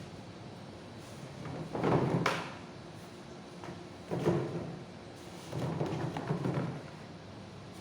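Cardboard pieces being handled and set in place: three bouts of rustling and dull knocks, with a sharp click about two seconds in.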